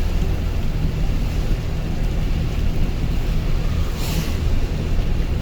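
Steady engine and road rumble inside a moving car's cabin on wet roads, with a brief swish about four seconds in.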